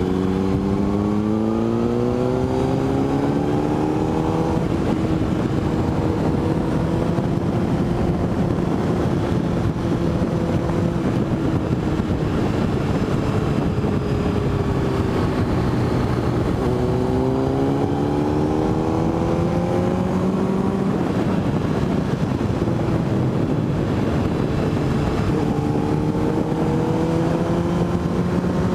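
Motorcycle engine pulling hard with rising pitch, then shifting up a little over 4 s in and cruising steadily; it accelerates again about 17 s in and once more near the end, with steady wind noise throughout.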